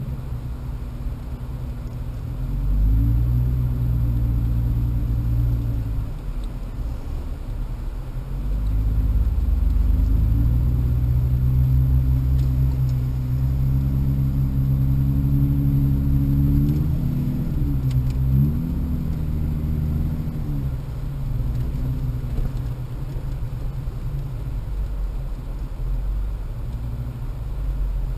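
Jeep Wrangler's engine pulling along a dirt trail, a low, steady rumble. It revs up about three seconds in and eases back a few seconds later. It revs again from about nine seconds, dips and climbs once more, then settles back after about twenty seconds.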